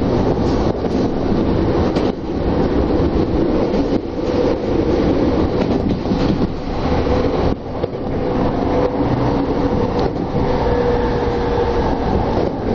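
Tokyo Metro Tozai Line commuter train running at speed, heard from inside the car: a steady rumble of wheels on rail with a faint steady tone underneath and a few brief dips in level.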